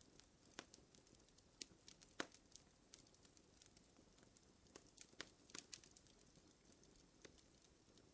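Wood fire crackling in a fireplace: quiet, irregular sharp pops and snaps over a faint hiss, the loudest pop a little over two seconds in.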